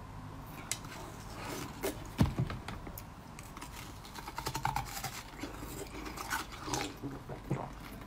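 Close-miked eating: bites into a soft, apple-shaped food and chewing, heard as scattered wet mouth clicks and crackles. There is one louder bite or knock about two seconds in.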